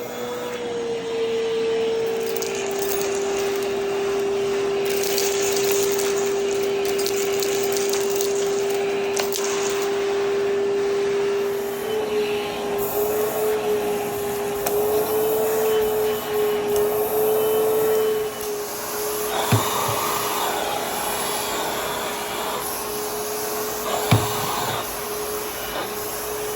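Zefiro bagless canister vacuum cleaner running with a steady motor whine; its pitch steps down slightly about two seconds in and wavers up and down in the middle. Two short knocks come in the second half.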